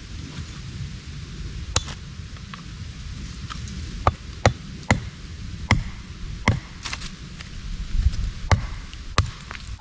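Axe striking wood, splitting small pieces: about ten sharp knocks at uneven intervals, several in quick pairs, most of them in the second half.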